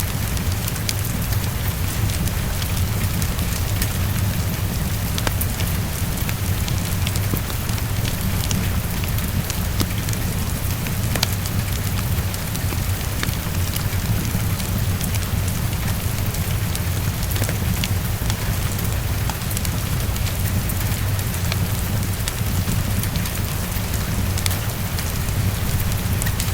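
Heavy rain tapping on a window, a steady hiss over a deep, constant low rumble, mixed with the scattered crackle of a wood fire.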